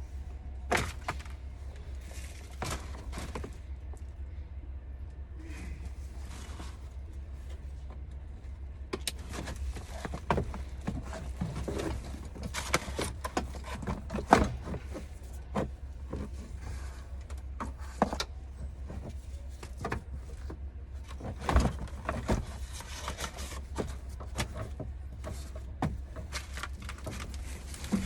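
Irregular clicks, knocks and clanks of hand work on a truck's steering-column parts, over a steady low hum. The loudest knocks come about midway and again about two-thirds of the way through.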